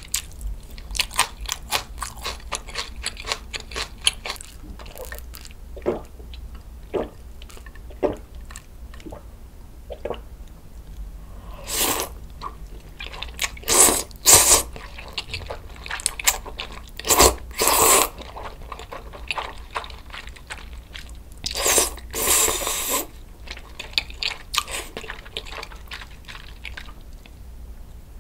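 Close-miked chewing of crunchy fresh napa-cabbage kimchi (geotjeori): rapid crisp crunches at first that slow and thin out. Then four loud slurps of chewy kalguksu noodles around the middle, about two seconds apart or more, followed by more chewing.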